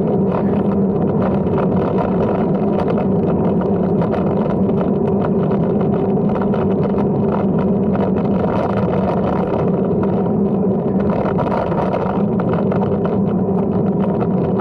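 Steady, unbroken riding noise from a Brompton folding bike under way: tyre and wind rumble with a low hum running through it.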